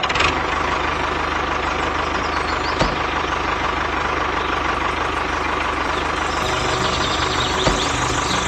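An engine or motor running steadily at an even idle, with a fast regular low pulse; faint ticks about three seconds in and near the end.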